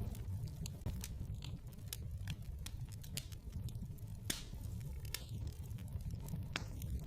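Wood fire burning in a fireplace: irregular sharp crackles and pops over a steady low rumble of the flames, with one louder pop about four seconds in.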